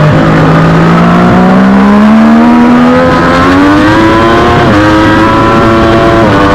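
Triumph Daytona 675R inline-three engine racing on board. Engine speed stays low briefly, then climbs under acceleration, with a quick upshift about four and a half seconds in and another near the end.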